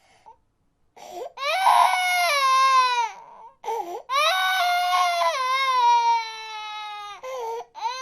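A baby crying, starting about a second in: two long wails, each sliding down in pitch, with a quick catch of breath between them, then a couple of short broken sobs near the end.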